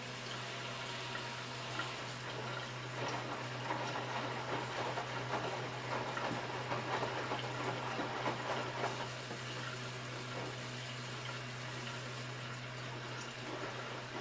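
Hotpoint washing machine running a wash cycle: water rushing and sloshing in the drum, swelling and easing, over a steady low hum.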